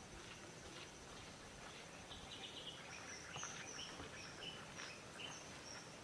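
Faint birds chirping: short repeated calls, more of them from about two seconds in, over a thin steady high tone and a low background hiss.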